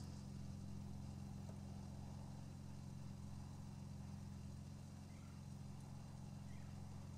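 Jeep Wrangler engine idling, a faint, steady low hum.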